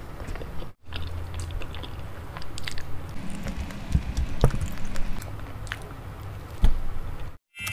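Close-miked mukbang eating sounds: a person biting and chewing soft, saucy food (spicy boneless chicken feet and rice balls), with wet mouth sounds and scattered sharp clicks. The sound breaks off briefly a little under a second in.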